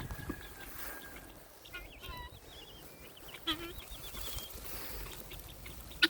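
Faint bird chirps and calls: a few short warbling phrases about two seconds in, another call around three and a half seconds, then a single sharp click near the end.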